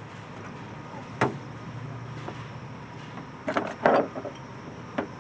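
Hand work on the intake hose clamps: a sharp click about a second in, a cluster of louder knocks and clatters of metal tools and parts between three and four seconds, and another click near the end, over a low steady background hum.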